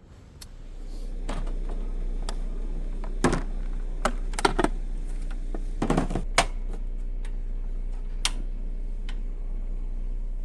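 Irregular clicks and knocks of gear being handled, over a steady low hum.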